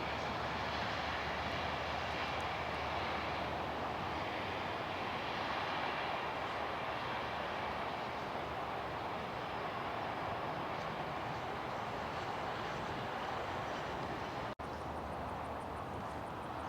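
Dash 8 Q400 turboprop airliner's engines running during its landing, a steady, even noise that eases slightly, with a brief dropout near the end.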